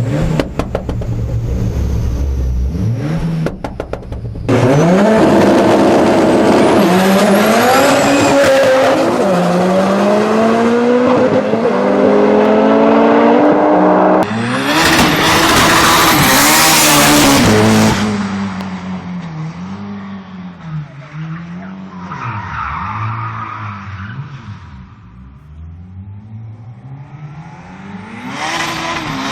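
Four-cylinder racing engines revving hard, their pitch climbing and dropping again and again through gear changes, with tyre squeal. The sound changes abruptly a few times. In the second half, cars pass one after another, each rising and falling in pitch.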